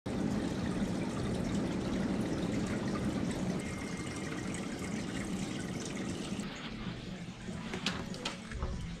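Steady rush of running water that eases about six and a half seconds in, with a few sharp clicks near the end.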